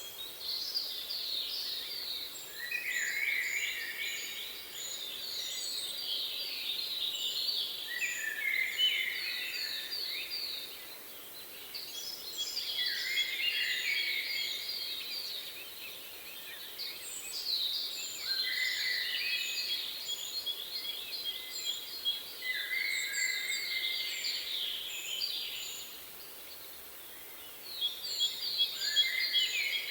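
Songbirds singing in repeated phrases of rapid trills and chirps, a new phrase every few seconds with brief lulls between, over a faint steady background hiss.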